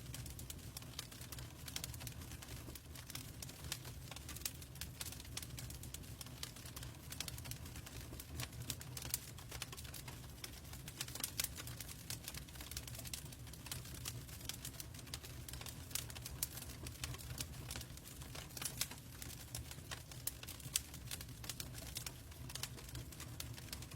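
Log fire crackling in a fireplace: a steady run of irregular small pops and snaps over a low, steady rumble.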